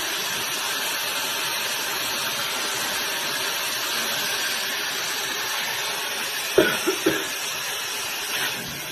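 JITOOW high-speed hair dryer running, a steady rushing hiss of blown air. A few short, pitched sounds cut in about six and a half seconds in.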